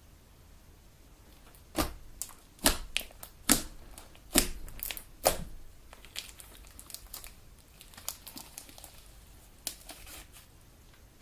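Homemade glue slime being squeezed and kneaded, with trapped air popping in a run of sharp clicks and crackles. The loudest pops come about once a second in the first half, followed by smaller, quicker crackles.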